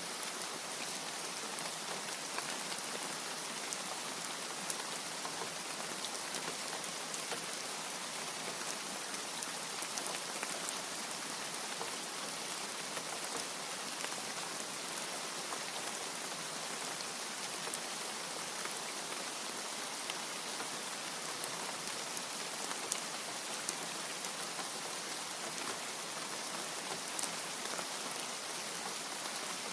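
Steady rain: a dense, even hiss with scattered sharper drop taps.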